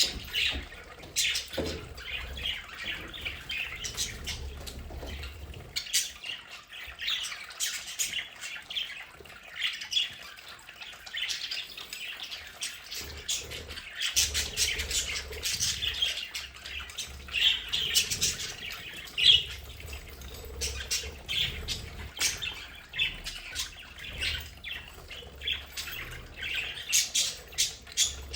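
A flock of budgerigars chattering and warbling continuously, a dense stream of short chirps and calls.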